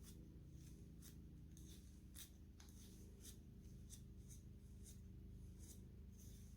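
Hair being brushed and stroked: a run of short, soft swishes, roughly two a second, over a faint steady low hum.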